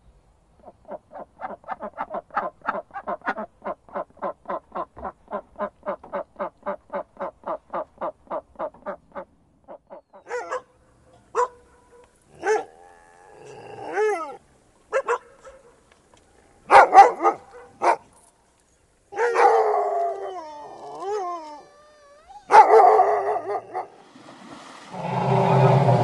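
A mallard quacking in a long, even series, about four quacks a second for some eight seconds. Then dogs barking and whining in short calls, some of them sliding in pitch. Near the end, water splashing begins.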